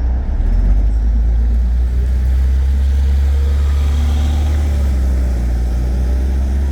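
A NefAZ-5299 CNG city bus heard from inside the passenger cabin while running: a steady, loud low engine and road rumble.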